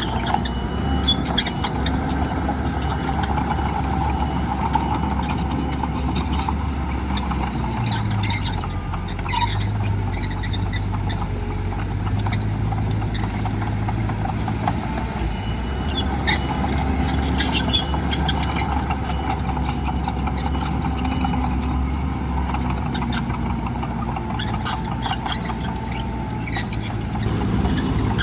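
Heavy earthmoving machine's diesel engine running steadily, its pitch shifting a couple of times as the load or throttle changes, with scattered metallic clanks and rattles.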